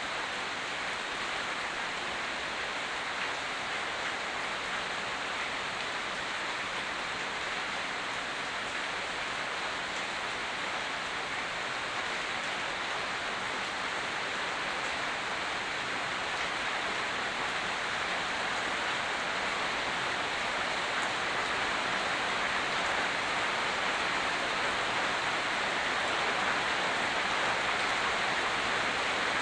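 Steady rain falling: an even hiss that grows slightly louder toward the end.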